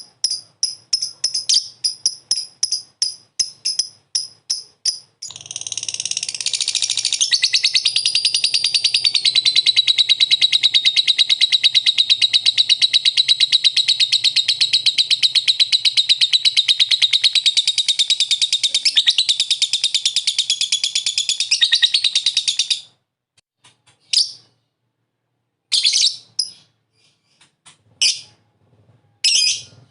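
Lovebird's 'ngekek' song. Quick high chirps at about four or five a second turn, about five seconds in, into one long unbroken rapid trill. The trill is held for nearly twenty seconds and stops abruptly, and a few short separate chirps follow.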